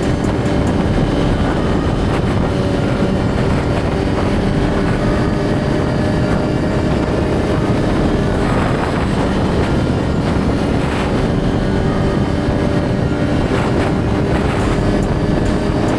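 Suzuki GSX-R1000 inline-four engine running at a steady pace while riding, heard through a heavy rush of wind noise on the mic.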